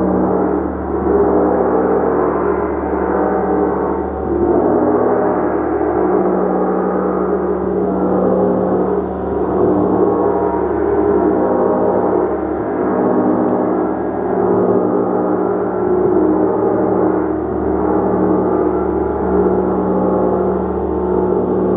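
Gong played continuously as a dense, sustained ringing of many overlapping tones that swells and eases gently, with no single sharp strike standing out.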